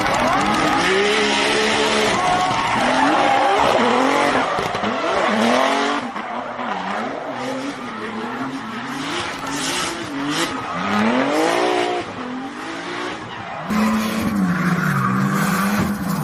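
Drifting car's engine revving up and down on and off the throttle, with tyres screeching. The sound jumps abruptly a few times.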